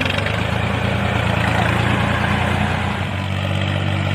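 A vehicle engine running steadily at a low idle, its tone shifting slightly about three seconds in.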